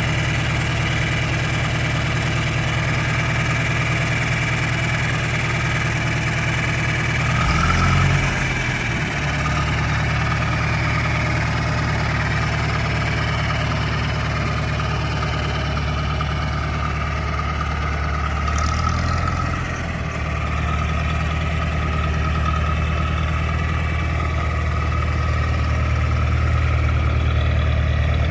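John Deere 3020 tractor's four-cylinder engine idling steadily, its note shifting briefly twice, about eight seconds in and again near twenty seconds.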